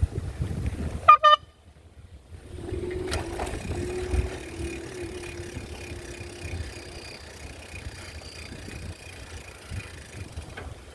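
Vehicle horn giving two short beeps about a second in, followed by a lower, steady wavering tone for a few seconds, over a low rumble.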